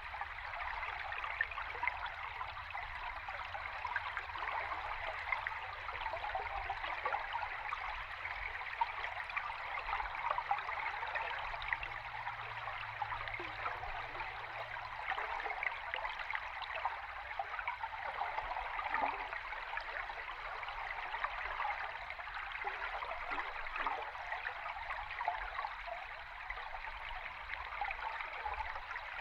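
River stream heard underwater: a steady rush of flowing water full of fine crackling bubbles, even and unchanging throughout.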